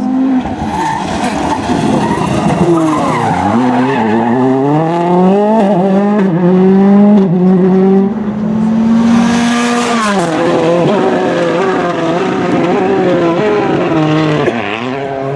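Rally car engine revving hard, its pitch dropping sharply on braking about three, ten and fourteen seconds in, then climbing again through the gears as it accelerates away, with tyre noise from the car at speed.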